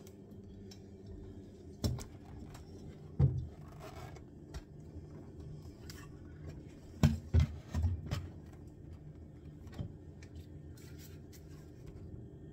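Irregular knocks and scrapes from handling the fixed kitchen cabinets: single knocks about 2 and 3 seconds in, three quick knocks around 7 to 8 seconds, and one more near 10 seconds, over a steady low hum.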